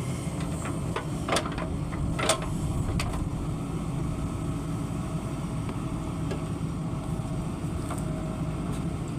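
Diesel engine of a JCB 3DX backhoe loader running steadily under work, with a few sharp knocks; the two loudest come about one and a half and two and a half seconds in.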